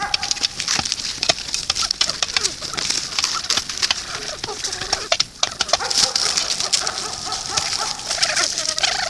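Birds calling, with many short clicks and taps throughout and a held call that drops out about a second in and returns near the middle.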